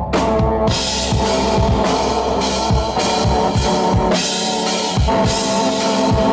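Live drum kit, bass drum and snare, playing a driving beat over sustained synthesizer tones, with cymbals coming in under a second in.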